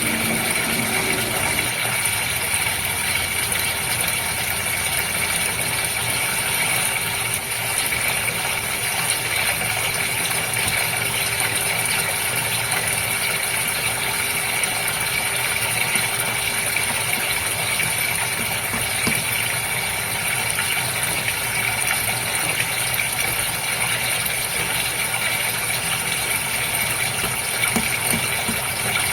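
Goldfish aquarium water running and bubbling steadily, over a constant mechanical hum.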